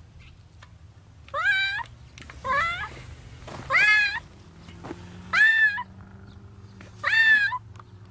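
Kitten meowing five times, loud calls that rise and then fall in pitch, about one every second and a half: the distress cries of a kitten trapped in concrete up to its head.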